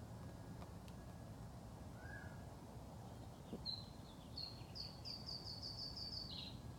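Wild bird song over steady low background noise: a short call about two seconds in, then from about halfway a bird sings a fast run of repeated high notes that ends in a falling note.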